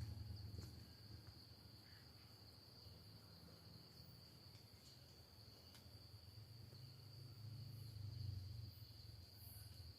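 Faint, steady high-pitched trill of crickets at night, with a low rumble that swells near the start and again late on.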